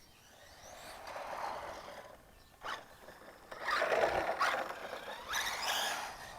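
Hobao Hyper EPX electric RC semi truck driving past several times, the brushless motor's whine rising and falling with the throttle over the hiss of its tyres. The sound swells and fades three times and is loudest about four seconds in.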